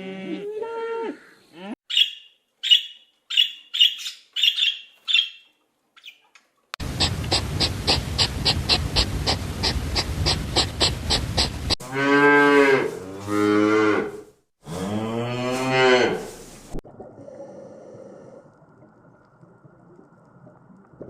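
Cattle mooing: three long, low moos one after another. Before them come a run of short high calls and a fast, even pulsing sound from other animals.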